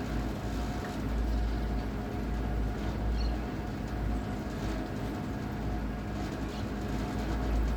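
Wind rumbling on the microphone in uneven gusts over a steady mechanical hum, with a couple of faint high chirps about three and four and a half seconds in.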